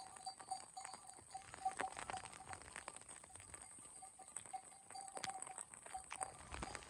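Rain falling, with irregular raindrops and drips pattering close by. A faint steady tone runs underneath.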